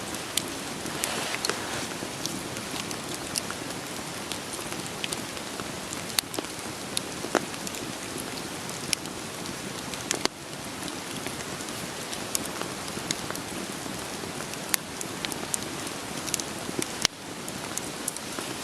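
Steady rain hiss mixed with a wood fire crackling, with scattered sharp pops and snaps at irregular moments throughout.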